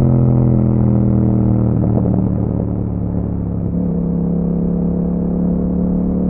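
2021 Yamaha MT-07's 689 cc parallel-twin engine running under way through an Akrapovič exhaust, holding a steady note that wavers about two seconds in and drops a little near four seconds in.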